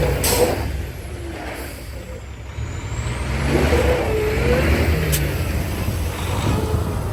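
Mack MP8 diesel engine of a semi truck running as the truck is driven, its note dropping about a second in and building again as it pulls. Two brief sharp sounds, just after the start and about five seconds in.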